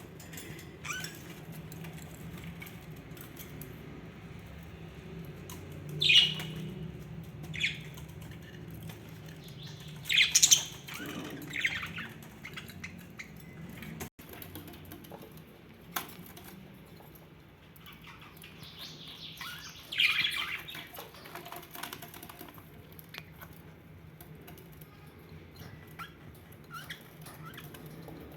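Pet budgerigars chirping and squawking in short calls, a few louder ones scattered through, over a low steady hum.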